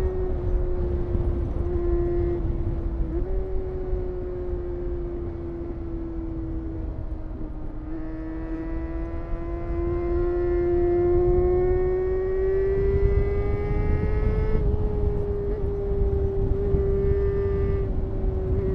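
Honda CBR250RR MC22's 250 cc inline-four engine running at high revs under way, with a high, steady engine note and wind rushing over the microphone. The note sags, then climbs for several seconds and drops suddenly about 15 seconds in, as at an upshift.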